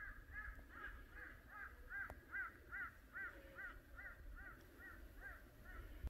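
A bird calling a rapid, regular series of about fifteen short arched notes, roughly two and a half a second, with low wind rumble underneath.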